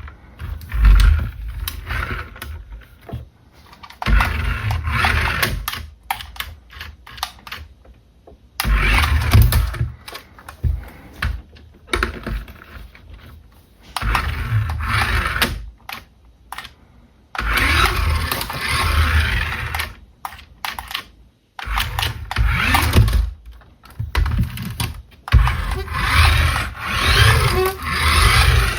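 Irregular bursts of handling noise from a plastic RC toy car and its packaging: rustling, clicking and knocking with low thumps, each burst lasting a second or a few, with short pauses between.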